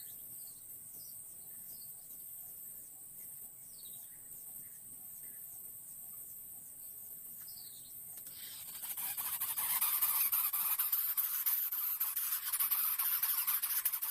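A steady high insect-like drone with faint, short falling bird chirps repeating every second or so. About eight seconds in, a much louder, rapidly fluttering hiss takes over and lasts to the end.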